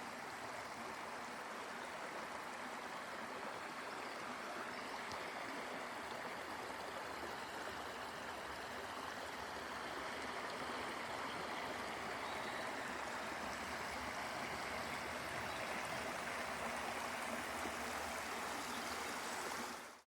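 Stream water running steadily, an even rushing sound that grows slightly louder about halfway through.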